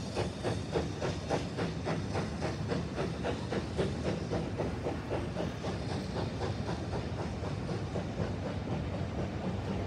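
Steam locomotive pulling out of a station, its exhaust chuffing in a quick, even beat of about three to four a second over a steady hiss of steam. The beats blur into a more even rush about halfway through as the train draws away.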